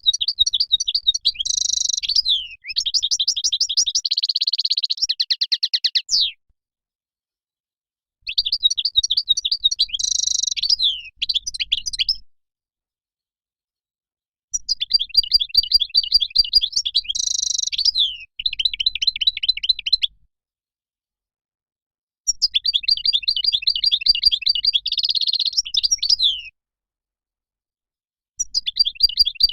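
European goldfinch song: fast, twittering, trilled phrases a few seconds long, broken by short silent gaps, five bouts in all.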